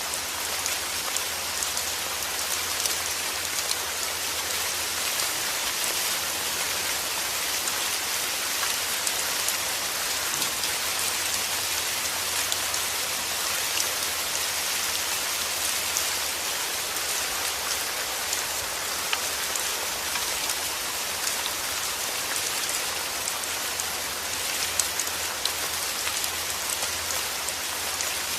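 Steady rain falling on a surface: a dense, even hiss with many fine drop ticks.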